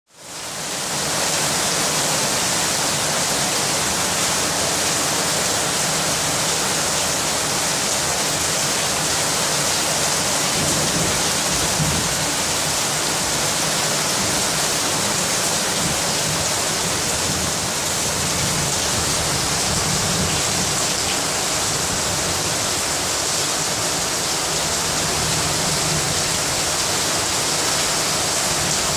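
Heavy rain pouring down steadily, a dense even hiss that fades in over the first second.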